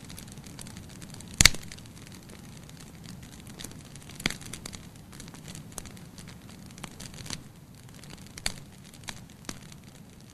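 Wood fire burning in a fireplace: a soft steady hiss with irregular sharp crackles and pops, the loudest pop about a second and a half in.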